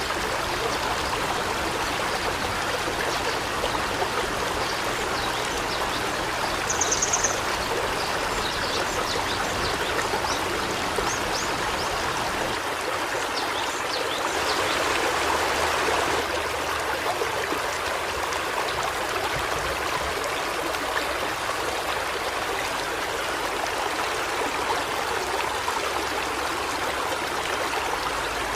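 River water flowing steadily, a continuous rushing and trickling. About a quarter of the way in comes a brief high, rapid trill from a bird.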